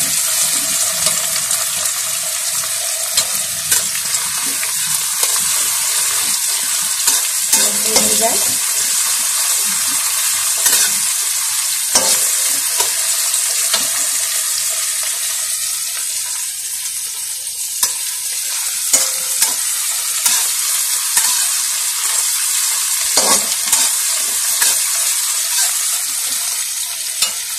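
Chopped onion and tomato sizzling in hot oil in a kadhai, stirred with a spatula that scrapes and clicks against the pan every few seconds. The tomato is still cooking down.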